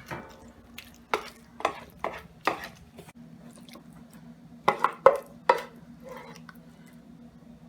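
A serving spoon scraping and knocking against a metal cooking pan and dish as the curry is spooned out. There are sharp clanks, about five in the first few seconds and a louder cluster of three around the middle, then only faint taps, over a steady low hum.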